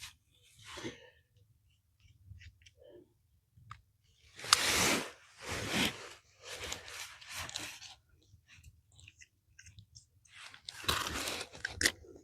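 Short plastic scraping and rustling handling sounds as a small Phillips screwdriver works open the housing of an electrical plug connector. The scrapes come in a few separate spells, loudest about four to five seconds in and again about eleven seconds in.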